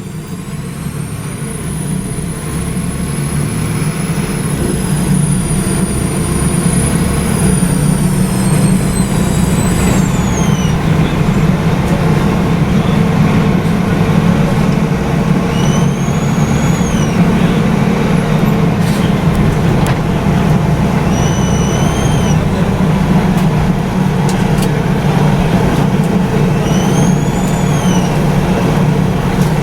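Volvo B7RLE city bus's rear-mounted diesel engine running steadily under way, heard from the back seat, with a high whistle that glides down about ten seconds in, then three short rising-and-falling whines. The uploader thinks these whines may come from the turbocharger.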